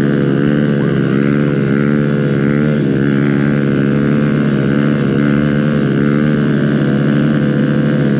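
Motorcycle engine running at a steady cruising speed, holding a near-constant pitch with slight dips as the throttle eases briefly.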